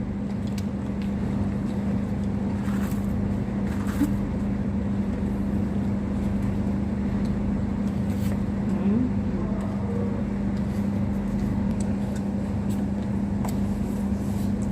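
Steady low mechanical hum with one even tone, with a few faint clicks.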